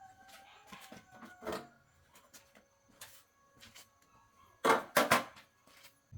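Scattered light clicks and knocks, like tools or small parts being handled, with a cluster of three louder knocks about five seconds in.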